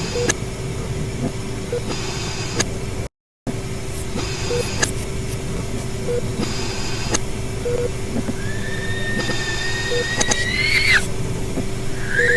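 Layered horror ambience: a steady low drone with a constant hum, soft short tones repeating about every two seconds, and patches of hiss. Near the end a long thin squeal rises slowly and breaks off, and another starts just after.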